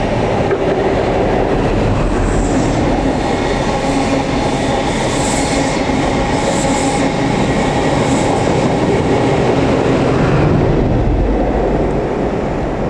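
The Midland Pullman, a converted HST set, passing at speed: its diesel power car's engine note and the steady rush of wheels on rail, with a few brief high squeaks from the wheels.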